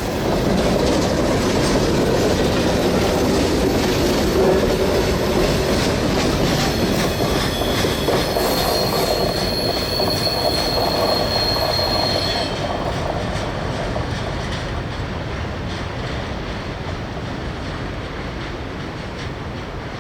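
A long freight train rolling past, its wheels clattering on the rails. A high, steady wheel squeal sounds for about four seconds in the middle. The sound then gradually fades as the train draws away.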